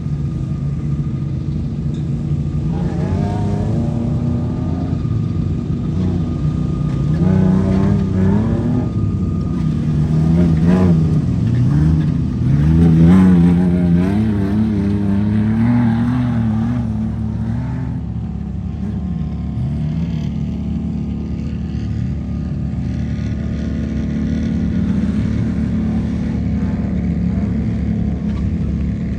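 Tuff truck engine revving hard, its pitch rising and falling again and again, loudest a little under halfway through, then running more steadily.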